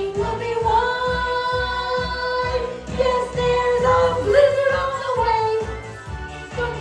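Children's song: a singing voice holds long notes, sliding into some of them, with no clear words, over a backing track with a steady beat.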